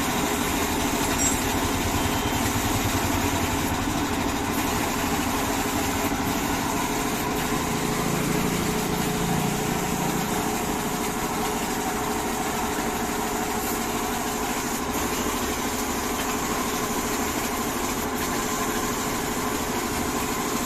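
A machine running steadily at constant speed, with an even mechanical hum.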